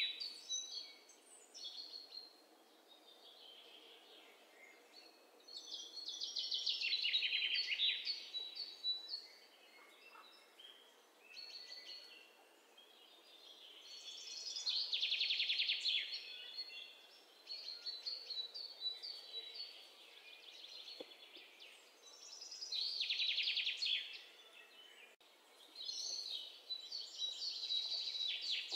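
Birdsong: a rapid, high trilled phrase lasting about two seconds, repeated four times at intervals of several seconds, with fainter high chirps in between.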